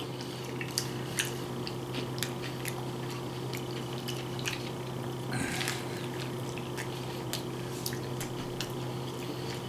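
A person chewing a mouthful of crunch wrap with Cheetos inside: small wet mouth clicks and crunches scattered throughout, with one louder crunch or breath about halfway. A steady low hum runs underneath.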